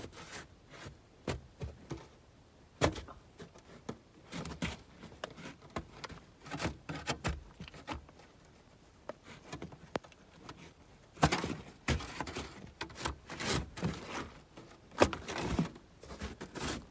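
Irregular knocks and thunks of objects being handled and shifted in a pickup truck's bed, with a few sharper bangs about three seconds in and a louder cluster of them near the end.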